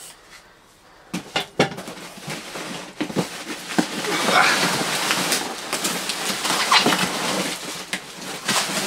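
A box and its packing being handled and rummaged through while unpacking: a few sharp knocks about a second in, then steady rustling and scraping with short squeaks.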